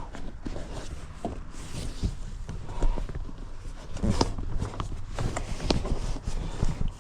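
Irregular knocks, clicks and rustles of hands working at a pickup cab's rear seat, trying to fold it down.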